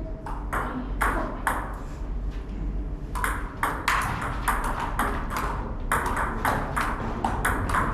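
Table tennis rally: the celluloid ball clicking sharply off bats and the table in a quick, uneven run of strikes, several a second at times.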